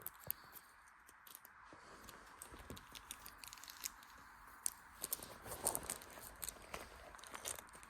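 A cat rummaging through belongings: crinkling and rustling with scattered small sharp clicks, busier from about five seconds in.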